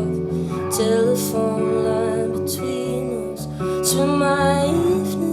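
Band music between sung lines: held chords and notes with guitar, with light cymbal-like hits on top.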